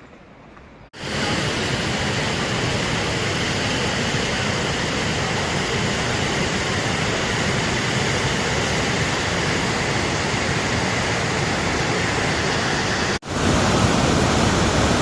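A loud, steady rushing noise with no rhythm or pitch. It starts abruptly about a second in, drops out for an instant near the end, and comes back slightly louder.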